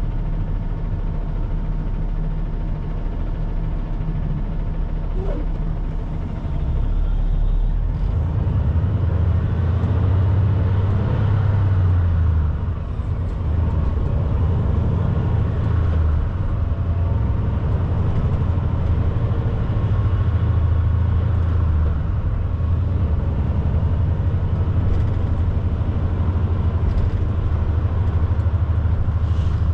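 Semi-truck's diesel engine and road noise heard from inside the cab while driving. It is a steady low drone that gets louder about six seconds in and dips briefly once near the middle.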